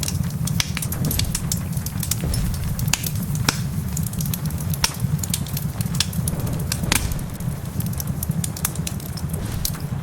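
Wood fire crackling, with frequent sharp pops at irregular moments over a steady low rumble.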